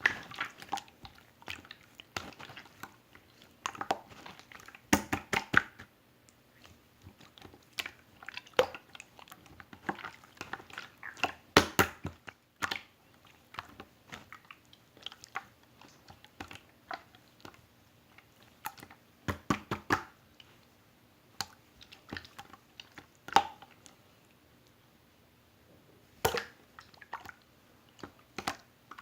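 Clear slime worked by hand, giving irregular wet clicks, pops and squelches in uneven clusters with short pauses.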